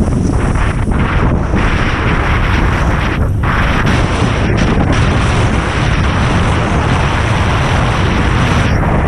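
Strong wind buffeting the camera's microphone in a constant loud rumble, with a rushing hiss on top and a brief lull about three seconds in.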